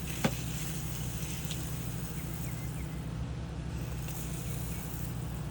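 Steady low mechanical hum over outdoor background noise, with one sharp click just after the start and a few faint high chirps around the middle.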